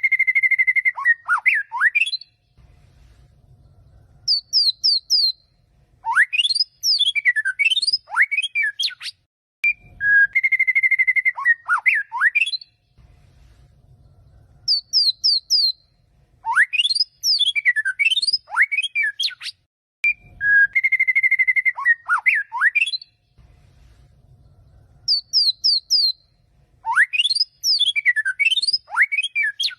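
A recorded songbird song, looped, of the kind played to warm up caged white-rumped shamas. Each cycle, about ten seconds long, has a buzzy trill, then rising and falling sweeping whistles, a short pause, a quick run of four high descending notes, and more sweeping whistles. The cycle plays three times.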